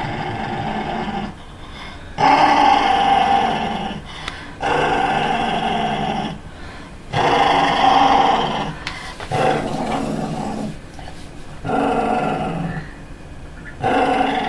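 A dog growling in a string of long drawn-out growls, each a second or two, with short breaks between them.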